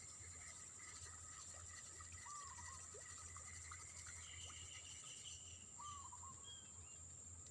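Faint outdoor ambience: a steady high-pitched insect drone, with a bird giving a short chirped call twice, a few seconds apart, and a brief trill partway through.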